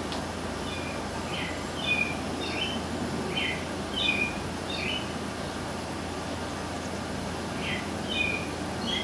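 A small bird chirping in quick groups of short high notes, in two bouts with a pause of a couple of seconds between them, over steady low background noise.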